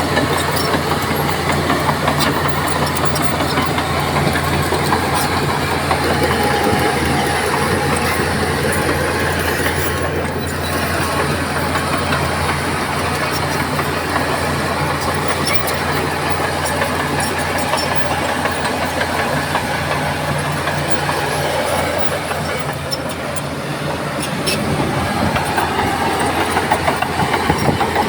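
Shantui crawler bulldozer's diesel engine running steadily under load, with a constant low hum and scattered metallic clanks from the steel tracks. The engine eases off a little about three quarters of the way through, then picks up again.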